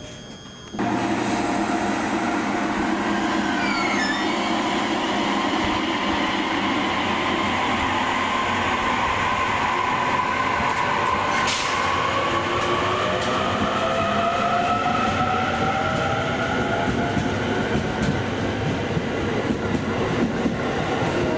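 A train running at a station: a steady loud rolling noise that starts suddenly about a second in, with whining tones that slowly rise in pitch in the second half.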